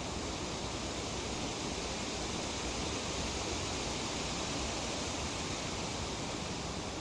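Breeze rustling tree leaves, a steady, even hiss that does not change.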